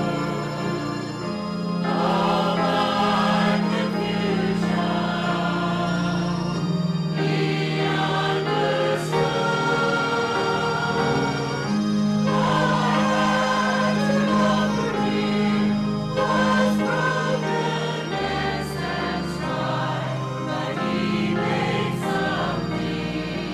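Church congregation singing a hymn chorus together, with instrumental accompaniment holding low sustained notes underneath.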